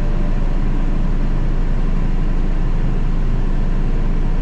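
Caterpillar D6K2 XL bulldozer's diesel engine running steadily under work.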